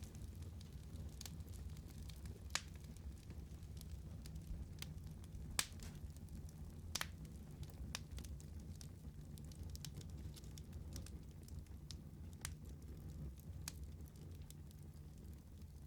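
Wood fire burning: a steady low rumble of flames with scattered sharp crackles and pops, the loudest pop a little past a third of the way in.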